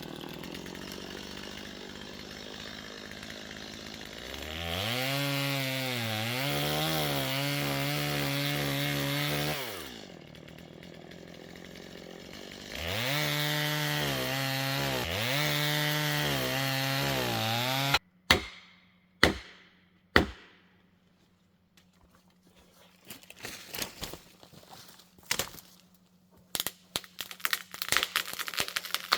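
Chainsaw idling, then running at full throttle twice, its pitch wavering and dipping as it cuts through wood, before it stops suddenly. After it stops come three sharp knocks about a second apart, then a run of small irregular clicks and taps.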